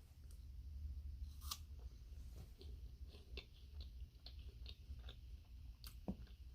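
A person chewing a bite of fudge round cookie with apple slice, with faint, irregular small crunches and mouth clicks.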